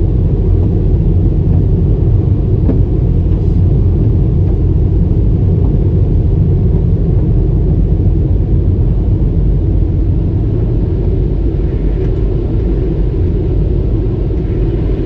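Automatic car wash machinery running, a loud steady low rumble with no breaks.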